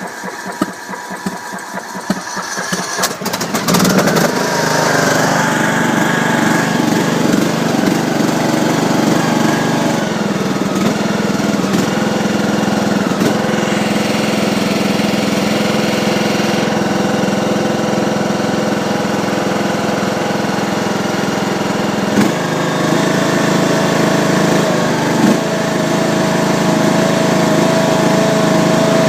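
Craftsman YS4500 lawn tractor engine on a cold start: the starter cranks it for about three seconds, it catches about four seconds in, and then it runs steadily. Its note changes about two-thirds of the way through.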